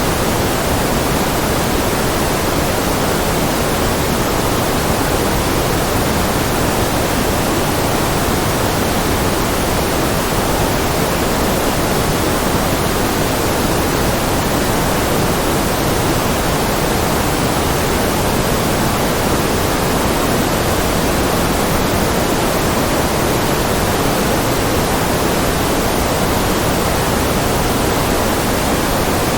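Steady white-noise track: an even, unbroken hiss with no change, a little fuller in the low and middle range than at the top.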